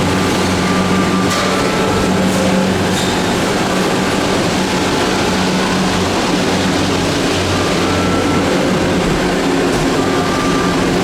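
Steady rumble of a moving vehicle heard from inside, with a low drone and a few short, faint high-pitched squeals.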